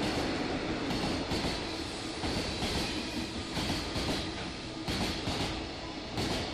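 Freight train cars rolling past, the wheels clattering over rail joints in repeated paired beats over a steady rumble.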